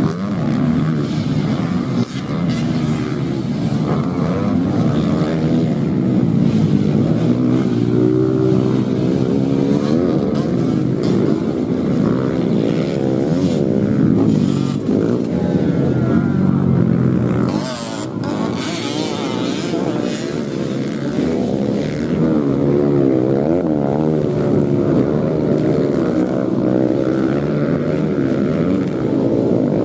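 Several off-road racing motorcycles running on a dirt track, their engines repeatedly revving up and dropping back as they ride past, with several engine pitches overlapping.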